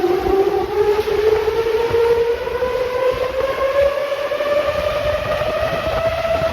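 Large blower of a storm-wind simulator speeding up: a whine that rises steadily in pitch over the rush and buffeting of strong wind, as the airflow builds toward 50 m/s.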